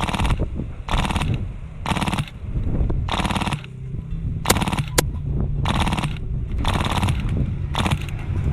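HPA airsoft MK46 light machine gun with a Polar Star Fusion engine firing short full-auto bursts, about one burst a second. Each burst is a rapid rattle of shots, and two sharp single shots fall near the middle.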